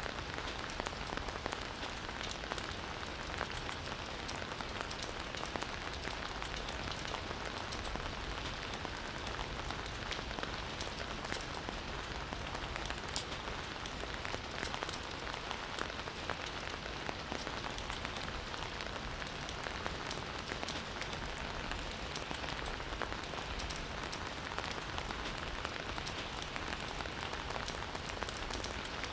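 Campfire burning with a steady hiss and many small crackles and pops throughout.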